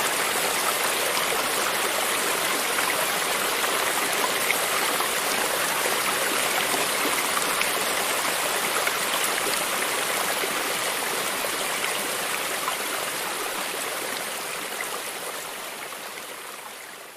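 Running water of a stream, a steady dense rushing and splashing that fades out slowly over the last few seconds.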